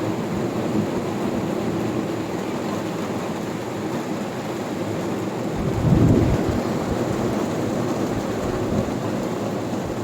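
Steady rain falling, with a low rumble of thunder swelling and fading about six seconds in.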